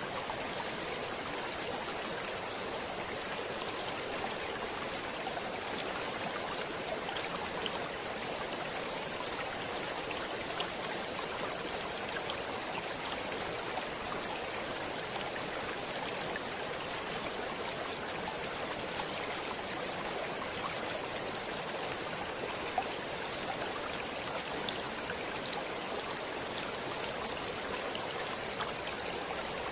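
Stream water flowing steadily, a constant rushing hiss with faint scattered splashing ticks.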